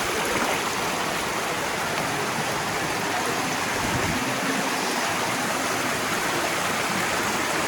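Stream water rushing steadily through Rauðfeldsgjá gorge, an even, unbroken wash of water noise.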